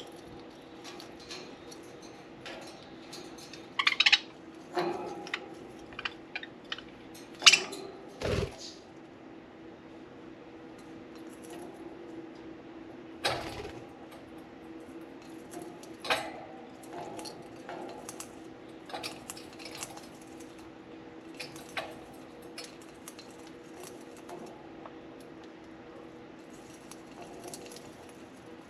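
Budgies chewing and tugging at a soft-wood shredding toy in their cage: irregular clicks, cracks and light metallic clinks, with a few sharper knocks about four and seven to eight seconds in, over a faint steady hum.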